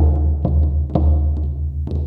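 Several shamanic frame drums beaten in a steady trance rhythm, about two strong strokes a second with lighter strokes between. Each stroke is a sharp hit over a deep tone that rings on.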